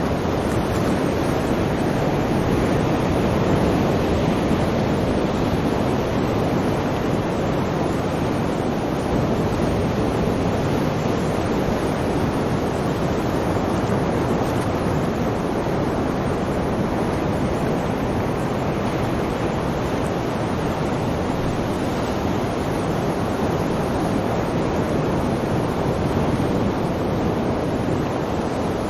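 Sea waves surging in a continuous rush of surf, swelling and easing slowly.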